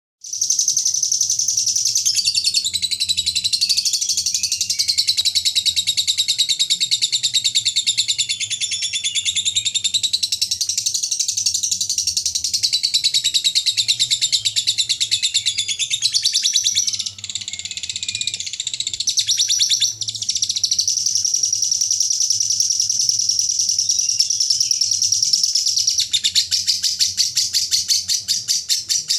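Lovebird singing a long 'ngekek': an unbroken, very rapid, high-pitched chattering trill held for many seconds, faltering briefly about 17 and 20 seconds in. Near the end the trill slows into separate quick chirps.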